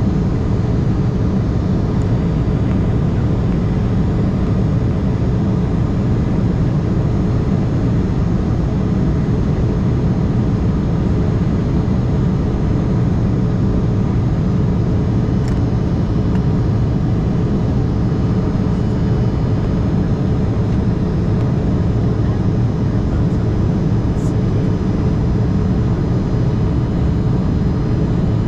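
Steady cabin noise of an Embraer E175 under way, the drone of its twin GE CF34-8E turbofan engines and the rush of air around the fuselage, with a faint steady hum. The level holds even throughout.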